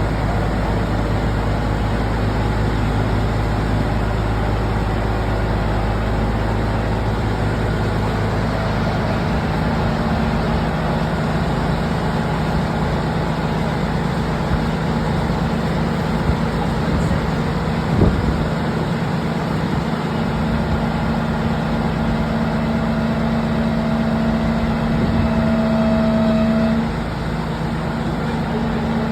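A heavy vehicle's engine running steadily. About nine seconds in the deep low rumble drops away and a steadier, higher hum takes over, with a single knock about halfway through.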